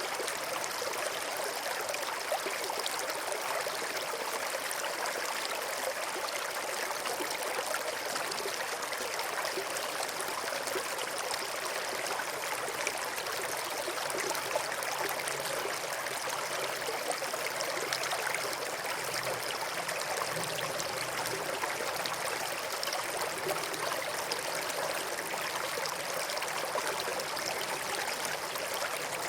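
River water flowing over and between rocks, a steady rushing and babbling.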